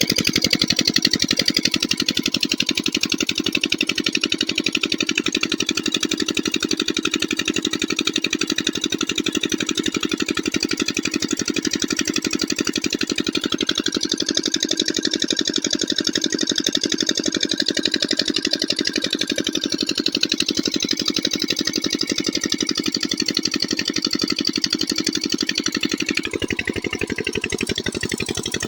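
Diesel water-pump engine running steadily with a fast, even chugging beat. It eases slightly about 26 seconds in.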